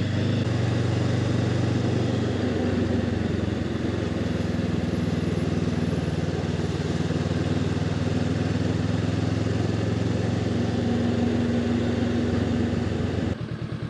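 Honda CB500X's parallel-twin engine pulling away from idle and running steadily at low speed. It drops back to an even idle near the end.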